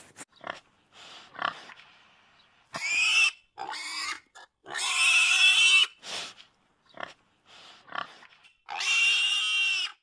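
Domestic pig grunting in short snorts, then squealing loudly several times, the longest squeal lasting over a second.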